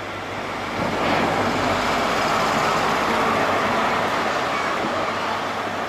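Train moving through the station, a steady noise of wheels and engine over a low hum that swells about a second in and holds.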